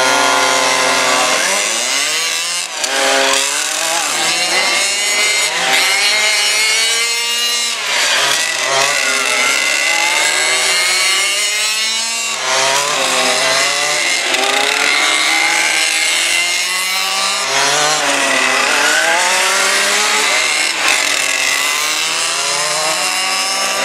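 Small two-stroke petrol engines of 1:5 scale RC cars (23 cc and 30 cc) revving hard, several at once, their pitch repeatedly rising and falling with the throttle.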